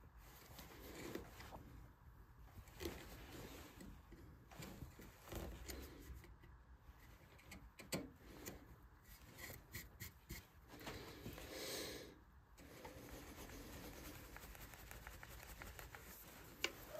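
Faint, irregular scraping of a hand carving tool cutting into a wooden vase, with small clicks and a sharp tap near the end.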